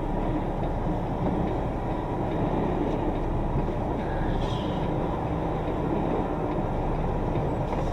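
Semi truck's diesel engine running steadily at low speed, a continuous low rumble while the rig creeps through a parking maneuver.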